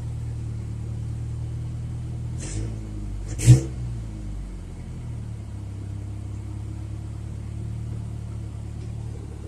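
1995 Ford Ranger pickup engine idling steadily after a boost start following four months of sitting, running smoothly rather than rough. The engine note briefly changes about two and a half seconds in, with a single sharp knock about a second later.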